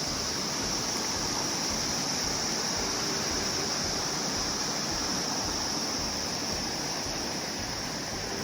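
Flooded river rushing, a steady even roar of fast-moving water.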